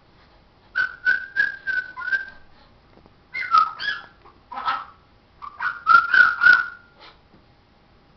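Pet parrot whistling and chattering in several short runs of quick, pitched notes with pauses between.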